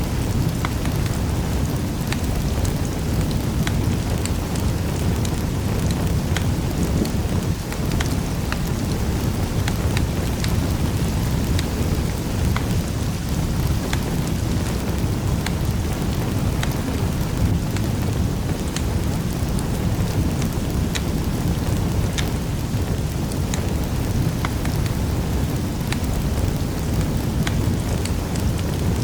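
Wood fire burning in a fireplace: a steady low rumble with many small crackles and pops scattered irregularly throughout.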